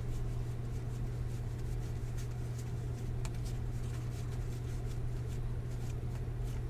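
Light rustling and soft scattered clicks of trading cards being handled and flipped through, over a steady low hum.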